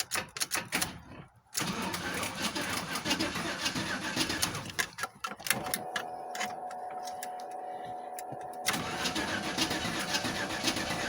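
Cold start of a carbureted 5.7 L V8: a few clicks, then about a second and a half in the engine cranks and fires. It runs unevenly, with a steadier pitched stretch in the middle. The Edelbrock carburetor has no working choke, so it is running rich.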